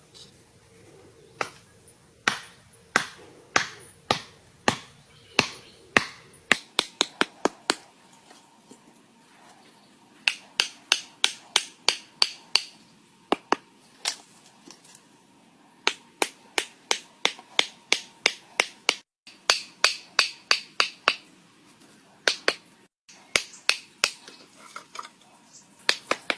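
Sharp knocks, one after another in uneven runs: single strikes about a second apart at first, then quicker runs of several a second, broken by short pauses.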